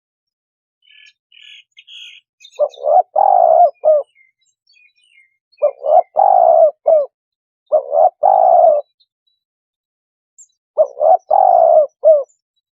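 Spotted dove cooing, a recorded lure call: four phrases, each a short run of quick low coos with the middle note longest, a second or two apart. Faint high chirps come just before the first phrase.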